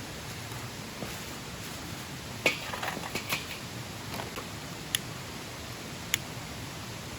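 A few light clinks and knocks of small hard objects being handled, like cookware or utensils. There is a short cluster a few seconds in, then two sharp, briefly ringing clinks near the end, over a steady background hiss.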